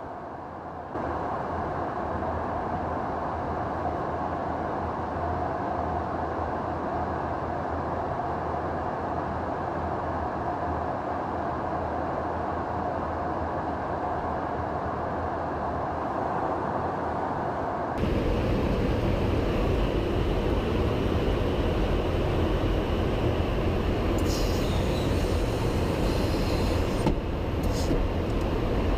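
Steady jet aircraft noise, a continuous rumble and hiss that jumps louder and brighter about 18 seconds in.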